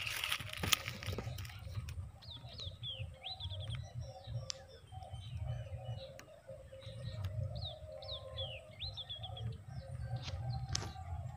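Birds chirping faintly in quick runs of short high notes, two runs in the middle stretch, over a steady low rumble and a few sharp clicks.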